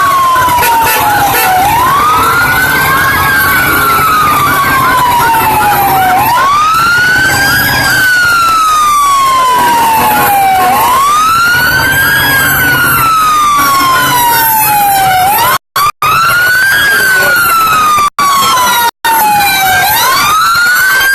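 Fire truck siren wailing: a loud tone that rises quickly, then falls slowly, repeating about every four and a half seconds over a low rumble.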